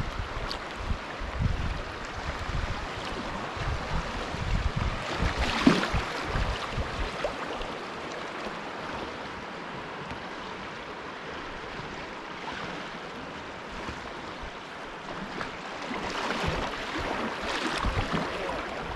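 Water splashing and rushing around a kayak drifting with the river current, with wind buffeting the microphone. Louder splashes come about six seconds in and again near the end.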